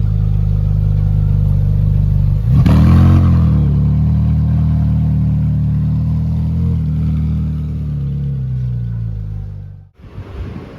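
Car engine running steadily, blipped once about two and a half seconds in so the pitch sweeps up and back down, then running on evenly until the sound cuts off abruptly near the end.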